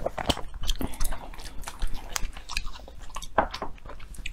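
Close-miked chewing and biting of food, a quick irregular run of crisp crunches and wet mouth clicks.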